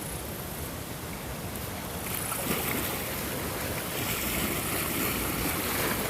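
Ocean surf: a steady hiss of waves that swells into a louder rushing wash about two seconds in.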